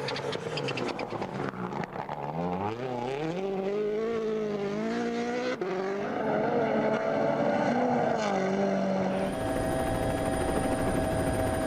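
Rally car engine revving hard, its pitch climbing and dropping sharply again and again through gear changes. After about nine seconds it gives way to a steady, even drone.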